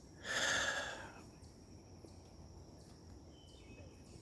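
Faint, steady high-pitched insect chirring in the background, with a short breathy rush of noise lasting about a second near the start.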